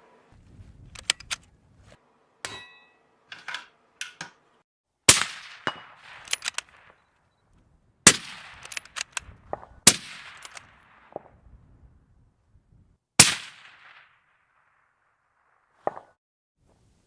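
Bolt-action rifle fired four times, each sharp shot followed by a ringing tail, with smaller metallic clicks and clacks before and between the shots.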